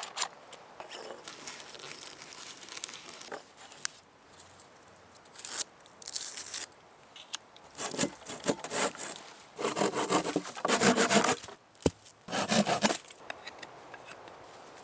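A hand tool working wood: a few bursts of rapid rasping strokes in the second half, the loudest about two-thirds of the way through, after scattered knocks and rustles of handling.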